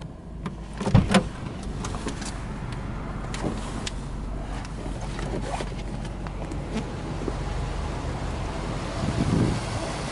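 Subaru Impreza WRX STi's boxer engine idling steadily, with a few sharp clicks and knocks about a second in and scattered handling clicks and a short knock near the end as the camera moves through the cabin.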